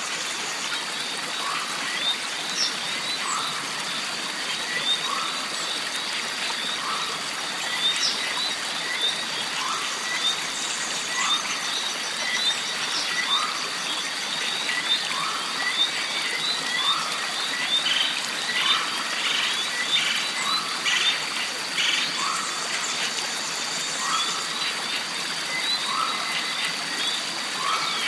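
Jungle stream ambience: water running steadily, under a constant high-pitched tone and a short animal call that repeats about every second and a half, with scattered chirps and clicks.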